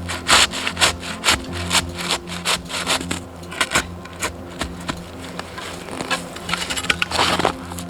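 Wood being sawn by hand, about two strokes a second, with a longer stroke near the end.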